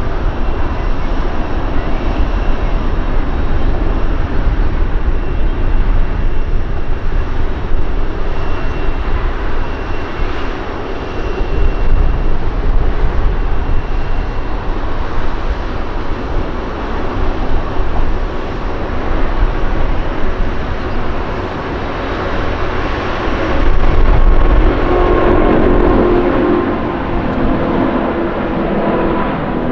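Jet airliner engines at the runway: a loud, steady rumble, with a whining engine tone coming in near the end.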